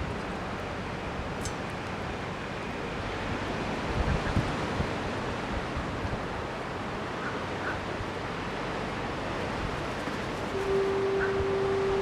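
Steady wash of ocean surf, with a few low wind buffets on the microphone about four seconds in. Near the end a long, steady horn note starts and holds.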